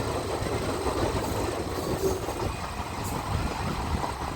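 Express passenger train running on the track, heard from aboard: a steady rumble of the wheels and running gear.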